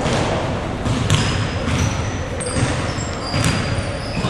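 Indoor basketball game: a basketball bouncing on the court with a few sharp thuds, amid short high squeaks and the hubbub of players on the court, echoing in a hall.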